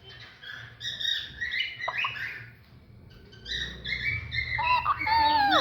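Alexandrine parakeet chattering in two bursts of high, rapid calls, the second ending with a falling note.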